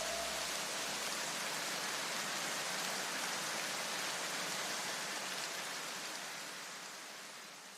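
A steady rushing hiss of noise that fades away over the last two seconds.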